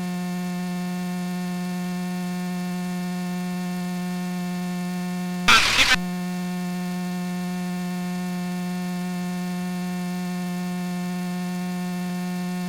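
Steady electrical hum on the aircraft intercom audio, one unchanging low tone with its overtones. There is a brief crackle of static about five and a half seconds in.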